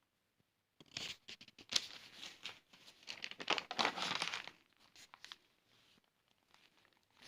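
A spice packet of curry powder crinkling and tearing as it is opened and poured: a run of rustling crackles lasting about three and a half seconds, then a few light clicks.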